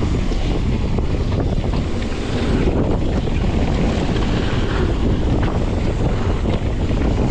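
Wind buffeting the microphone of a camera carried on a mountain bike riding fast down a dirt flow trail, a steady rumbling rush with constant small rattles from the ride.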